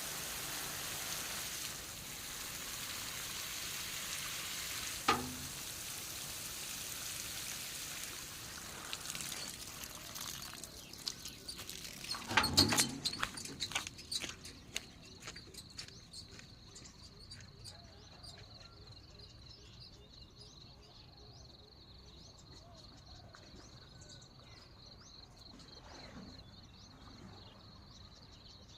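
Water spraying onto eggplant plants, an even hiss that dies away about ten seconds in. A cluster of knocks and rattles follows a couple of seconds later. Then comes rural quiet with a steady high-pitched insect drone.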